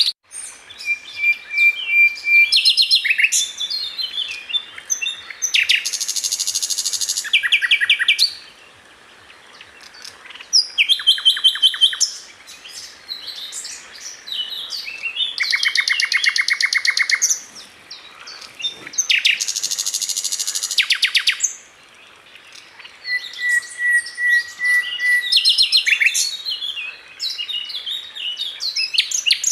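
Sikatan londo flycatcher singing a long, varied song: fast rattling trills of repeated notes, buzzy phrases and a few level whistled notes, with short breaks between phrases.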